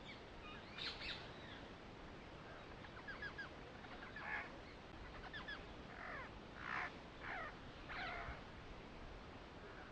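Birds calling faintly: scattered short chirps and several downward-sweeping calls over a faint steady hiss.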